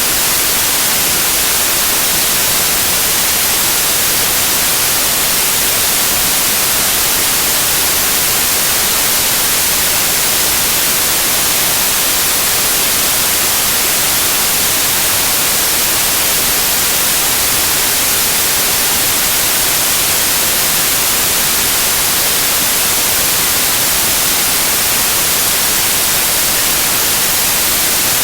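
Loud, steady white noise: an even hiss with no change or events, strongest in the upper register.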